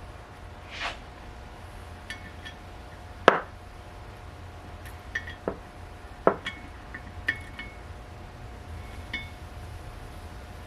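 Metal hand tools and parts clinking and knocking: several sharp knocks, the loudest a little over three seconds in, with lighter ringing clinks between them, over a steady faint hum.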